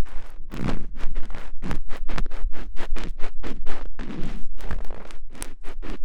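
ASMR ear-cleaning sounds: quick, uneven scratching and scraping strokes of ear digging, several a second, loud and close.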